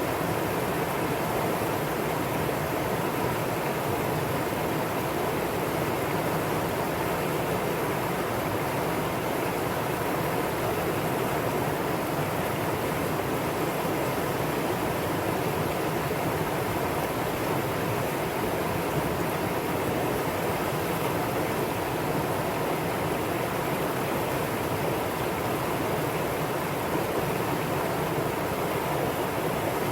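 Mountain stream water rushing and splashing over rocks, a steady even noise throughout.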